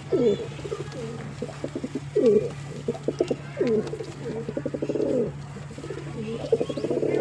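Pigeon cooing repeatedly: low, throaty coos, several with a falling glide, between quick pulsing trills. A steady low hum runs underneath.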